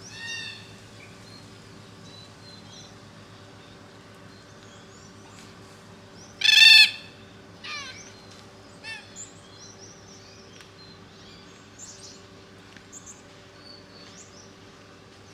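Forest red-tailed black cockatoos calling: a short creaking call at the start, one loud drawn-out call about six seconds in, then a few shorter calls. Small birds chirp faintly throughout over a steady low hum.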